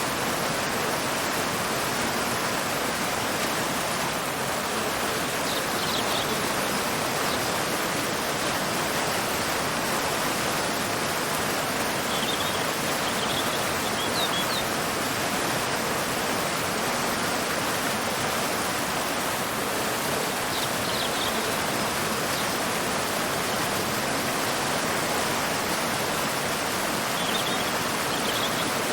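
Waterfall and river water rushing steadily. A bird gives short high chirps every several seconds.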